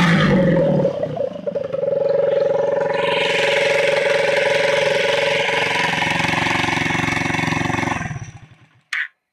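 Small motorcycle engine revving at the start, dropping back about a second in, then running steadily while its stator powers a water electrolysis cell. The engine sound dies away near the end, followed by a single short click.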